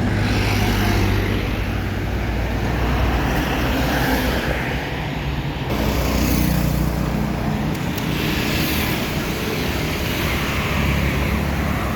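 Highway traffic passing: trucks and other vehicles going by one after another. Their engines run steadily under tyre noise that swells as each one passes.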